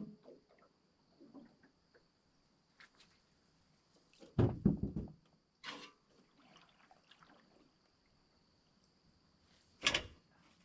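A few scattered knocks and thumps, the loudest cluster about four and a half seconds in and another near the end, with small clicks between, over a faint steady high-pitched whine.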